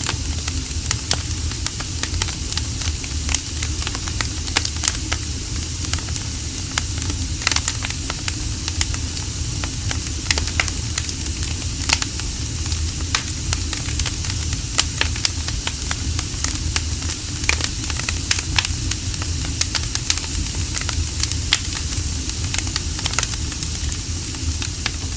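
Wood fire burning, with irregular crackles and pops over a steady hiss and a low rumble.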